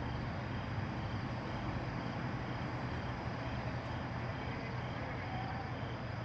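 Outdoor night ambience: a steady low hum under an even background haze, with a faint short high chirp repeating evenly a little under twice a second.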